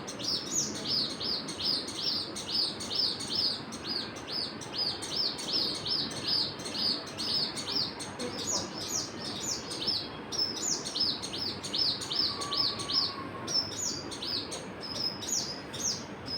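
Birds chirping: a steady run of short, high chirps, about three a second, that thin out briefly around nine seconds in before carrying on, over a constant low background hiss.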